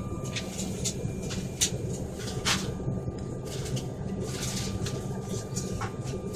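Steady low hum of an airliner cabin with a faint steady whine above it, broken by scattered small clicks and knocks.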